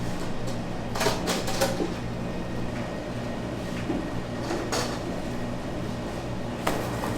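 A few short knocks and clatters of things being handled, over a steady low hum.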